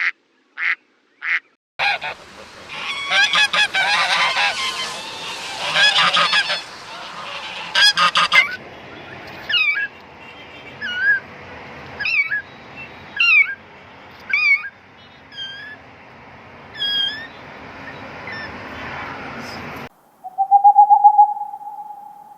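Geese honking: a flock calling over one another at first, then single honks about once a second. A few short quacks open it, and a steady hooting call starts near the end.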